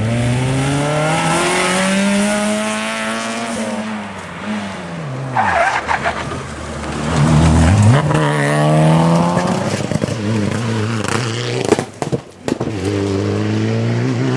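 Rally cars' engines revving hard one after another, the pitch climbing and falling as they accelerate through the gears and lift off. A short high noisy patch comes about five seconds in, and the sound drops out briefly near the end before another car's engine climbs again.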